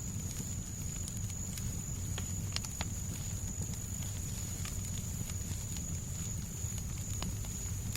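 Fireplace crackling, with scattered sharp pops over a steady low rumbling noise bed and a thin steady high tone.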